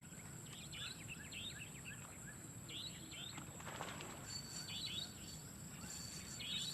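Small birds chirping outdoors: groups of short, quick chirps, faint over a quiet steady background hiss.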